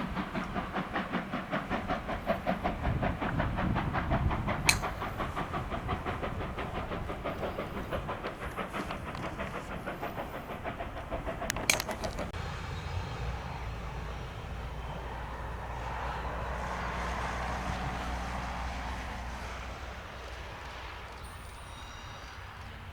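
DB class 23 steam locomotive 23 042 working by with a fast, even beat for the first half, with two sharp clicks. Then the coaches roll past with a steady rumble that slowly fades.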